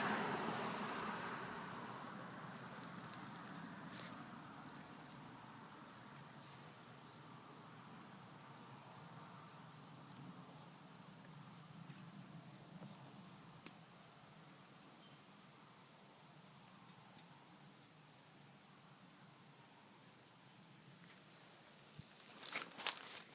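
Faint, steady chirping of insects, a high note pulsing in an even rhythm. A louder rush of noise fades out in the first couple of seconds, and a couple of sharp clicks come near the end.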